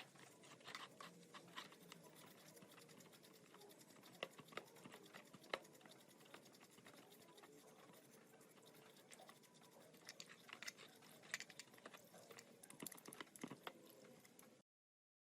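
Faint scattered clicks and light taps over a low hiss, with one sharper tap about five and a half seconds in and a cluster of taps near eleven seconds in; the sound cuts off abruptly near the end.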